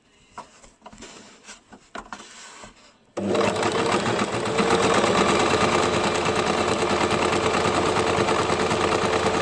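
A few light clicks and rustles of fabric being handled, then, about three seconds in, an electric home sewing machine starts suddenly and runs steadily at a constant speed, stitching.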